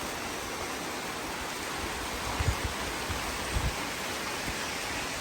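Steady rain falling, an even hiss, with a couple of soft low thuds around the middle.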